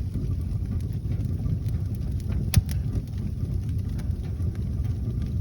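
Newly lit wood fire burning in a fireplace: a steady low rumble with faint crackles and one sharp pop about two and a half seconds in.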